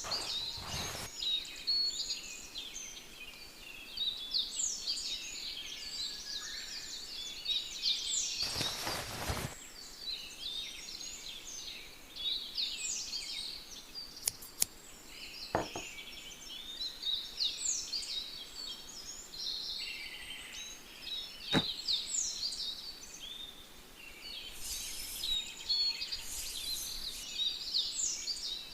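Songbirds chirping and singing busily throughout. There are a few short rustles, one near the start, one about nine seconds in and a couple near the end, and several sharp clicks around the middle.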